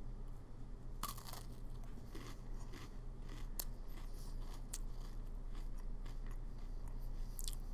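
A person chewing a mouthful of Oreo cookie, with scattered faint crunches as it breaks up; a steady low hum runs underneath.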